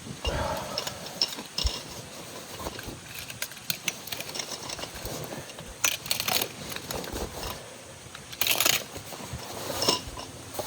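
Irregular small clicks, clinks and rustling scrapes of gear being handled by hand, with a louder scraping rustle about eight and a half seconds in.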